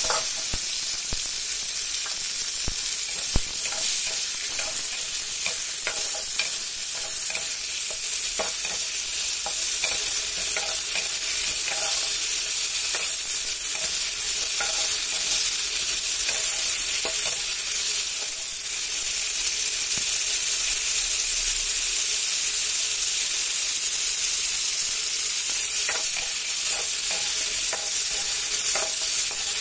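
Tomato chunks sizzling in hot oil in a kadai, stirred with a metal spatula that scrapes and clicks against the pan now and then.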